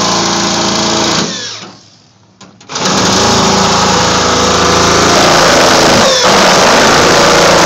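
Electric drill running under load, drilling a hole. It runs for about a second and a half, stops for just over a second, then starts again and runs on steadily.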